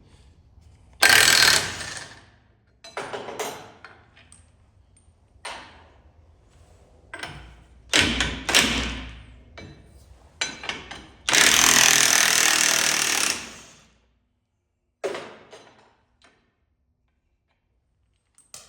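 Impact wrench run in a series of short bursts with pauses between, one held for about two and a half seconds near the middle, breaking loose the bolts and line fittings on a laser screed's hydraulic cylinder. It stops for the last couple of seconds.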